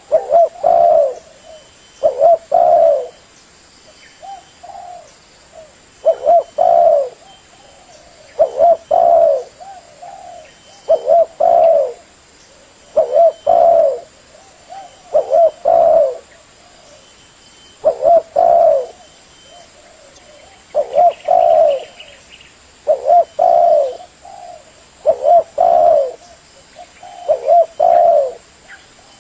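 Spotted dove (tekukur) cooing over and over: a short phrase of a few notes repeated about every two seconds.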